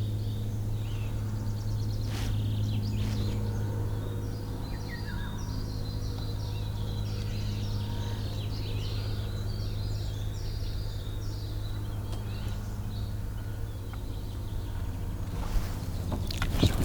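Small birds chirping and singing over a steady low hum.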